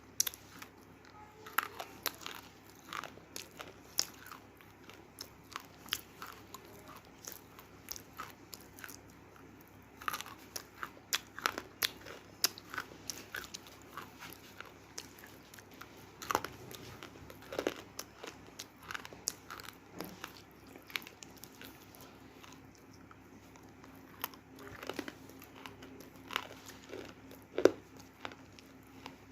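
Crunchy roasted multani mitti (fuller's earth clay) being bitten and chewed: irregular sharp crunches and crackles, with a quieter stretch a few seconds before the end, then the loudest crunch near the end.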